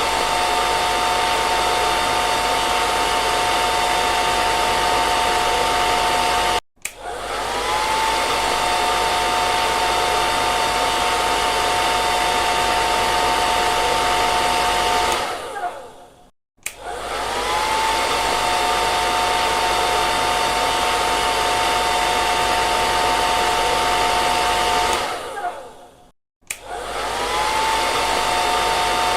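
Hair dryer running with a steady blowing hiss and a steady motor whine. It stops three times: once it cuts out suddenly, and twice it winds down. Each time it starts again within about a second, the whine rising as the motor spins back up.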